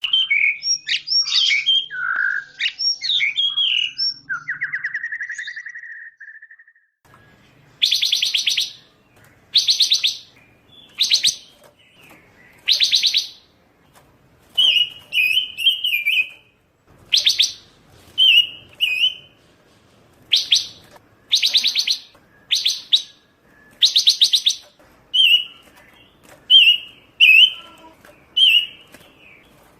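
Pancawarna bird singing loudly and non-stop: a few seconds of varied whistled phrases ending in a fading trill, then a long series of rapid, buzzy trilled notes about once a second, alternating with short chattering notes.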